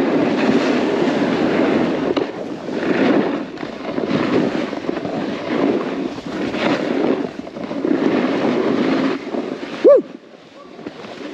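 A snowboard's edges scraping and hissing over snow through a run of turns, the rushing noise swelling and easing with each turn, with wind on the microphone. One short 'woo' hoot near the end.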